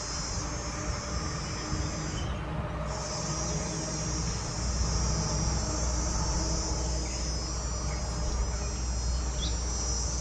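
A high-pitched insect trill, steady and continuous, that breaks off for about half a second a little after two seconds in and then resumes, over a low steady rumble.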